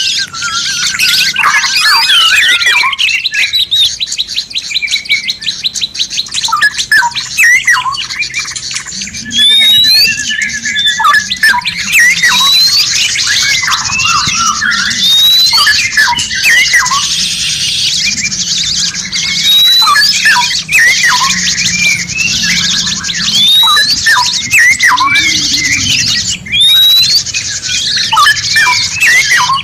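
Dense, layered birdsong from several songbird species mixed into a song-tutor recording: fast trills, sharp chirps and squawks, and a rising whistle repeated every couple of seconds.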